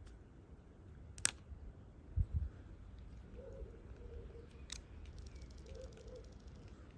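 Quiet handling of a smartphone and small repair tools while prying out its battery: a sharp click, a soft low bump a second later, another click, and faint scratchy ticking.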